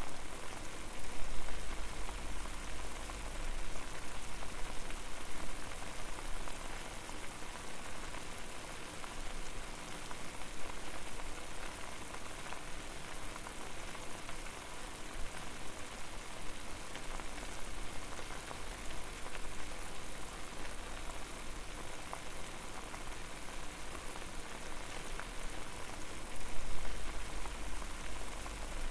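Water boiling over a fire: dense, steady bubbling and popping. A low rumble swells near the start and again near the end.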